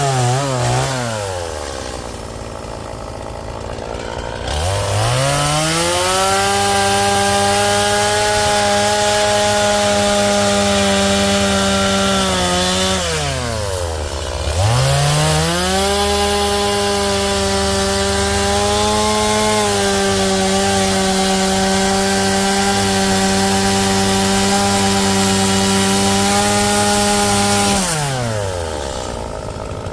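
Two-stroke chainsaw carving Western red cedar: the engine drops to idle in the first second, revs up about five seconds in and holds at high speed, eases back to idle briefly about halfway, then revs and holds again before dropping to idle near the end.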